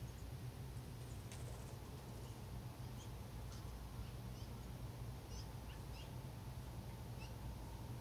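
Small birds giving short, scattered chirps over a steady low rumble.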